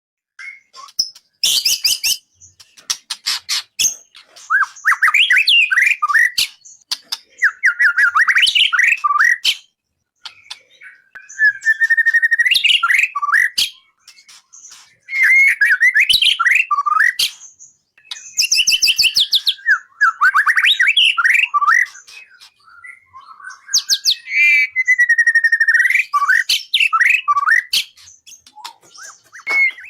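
Songbird singing loud, repeated phrases, each a quick run of whistled notes sweeping downward, some opening with sharp high-pitched notes, with short pauses between phrases.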